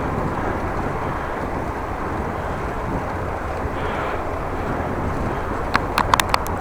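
Wind rushing over the microphone while riding a bicycle, a steady low rumbling noise, with a quick run of about five sharp clicks near the end.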